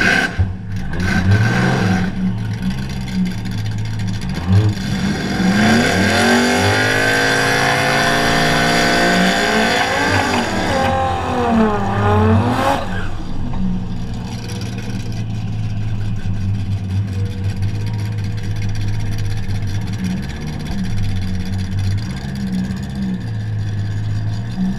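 Drag car engine accelerating hard for about seven seconds, rising in pitch, holding, then falling away as it backs off, over other engines running steadily.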